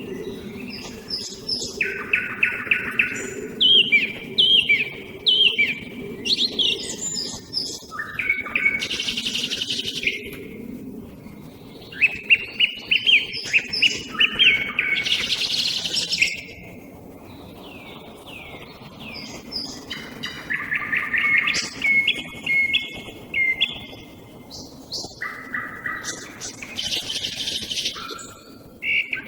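A song thrush and a nightingale singing in alternation. They trade loud, varied phrases: short notes repeated in groups, sweeping whistles and dense rattling trills, with brief pauses between. A faint low hum fades out in the first ten seconds or so.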